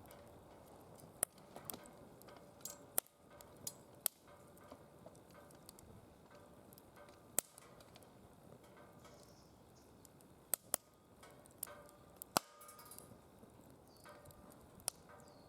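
Firewood burning in a DOD Mecha Moe Fire secondary-combustion fire pit: irregular sharp crackles and pops over a low steady hiss of the flames.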